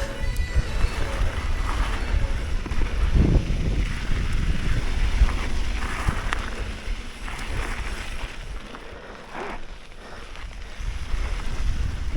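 Wind buffeting the microphone over the low rumble and rattle of a mountain bike riding down rough ground. It eases a little about two-thirds of the way through, then builds again.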